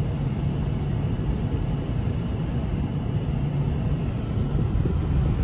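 A steady low rumble with a faint, even low hum underneath.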